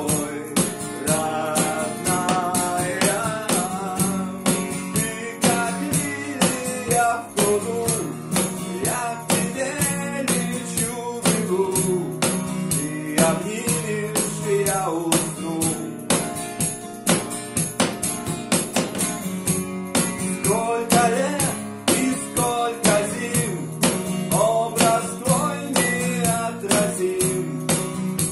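Instrumental passage of an acoustic band song: a steady cajon beat under strummed acoustic guitar chords, with a melody line weaving above.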